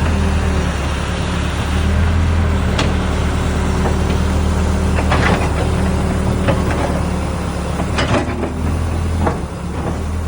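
An engine running steadily at a low, even pitch, with a handful of short sharp knocks and clinks scattered over it.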